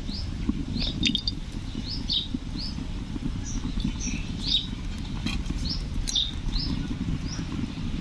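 Small birds chirping, short high notes about twice a second, over a low steady rumble.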